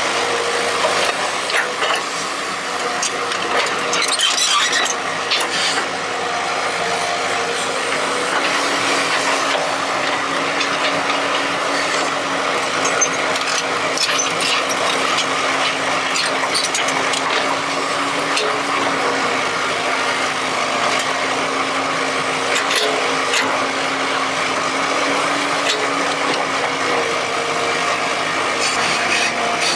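Excavator at work digging: a steady droning hum that drifts slightly in pitch, with scattered scraping and crunching clicks, as of a bucket working into soil.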